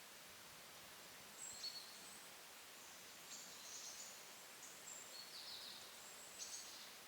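Small woodland songbirds giving short, high-pitched calls, several times in a few clusters, faint against a steady background hiss.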